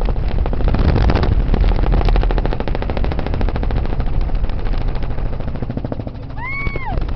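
Helicopter main rotor beating in a rapid, even chop over a heavy low rumble from the turbine, heard in flight. A brief high-pitched call that rises and falls cuts through near the end.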